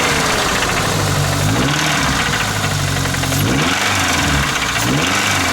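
Truck engine that has developed a knock, idling and briefly revved three times, its pitch rising and falling each time over a fast ticking knock.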